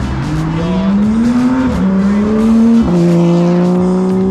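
A car accelerating hard. The engine note climbs, drops at a quick upshift about one and a half seconds in, climbs again, and drops at a second upshift near three seconds in, then pulls on in the next gear.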